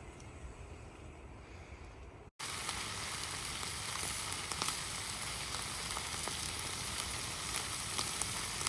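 Wind rumbling on the microphone for about two seconds, then after an abrupt cut, meat frying in a pan: a steady sizzling hiss with scattered small pops.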